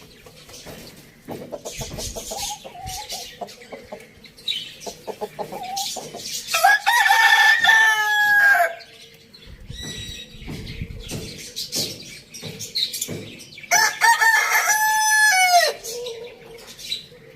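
A rooster crowing twice, each crow about two seconds long, held and then falling away at the end, with chickens clucking softly between the crows.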